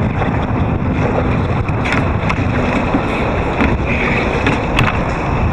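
Wind buffeting the microphone over water lapping against a kayak, with a few short knocks.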